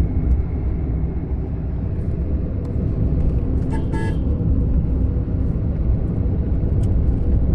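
A car driving along a road: steady low engine and road rumble, with a short horn toot about four seconds in.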